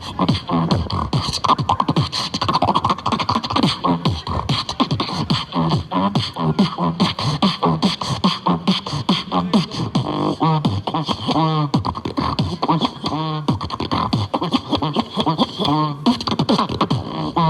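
Vocal beatboxing: a fast, continuous stream of mouth-made kick and snare hits, with hummed bass notes and warbling sung glides woven between the beats.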